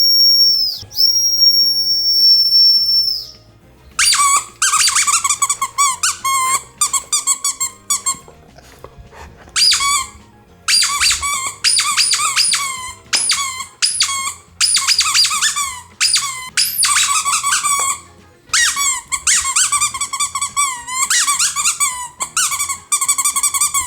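A high, steady whistle tone dips once and stops about three seconds in. After a short gap, a rubber squeaky dog toy is squeezed over and over, in quick bursts of squeaks with brief pauses between them. Faint background music runs underneath.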